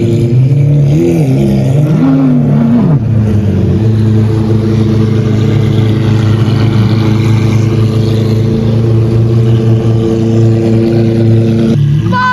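Car engine revved in about three quick blips in the first three seconds, then held at a steady, even engine note.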